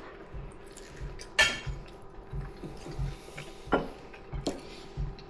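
Cutlery and dishes clinking and knocking during a meal: scattered light clicks, the sharpest about one and a half seconds in with a short ring.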